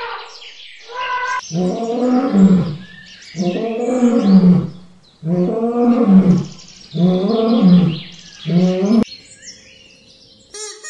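Lion roaring: a series of five loud, deep roars about one and a half seconds apart, the last one shorter.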